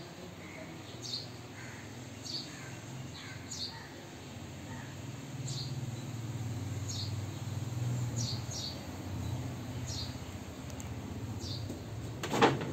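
A small bird chirping: short single falling chirps, about one a second, over a low steady hum. A sharp knock comes near the end.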